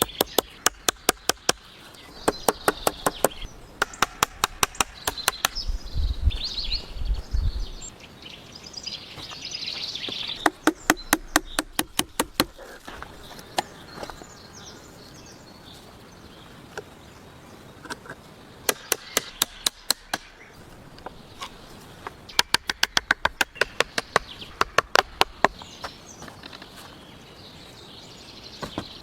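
Quick bursts of chopping, a blade striking wood about five times a second, in runs of a second or two with short pauses between.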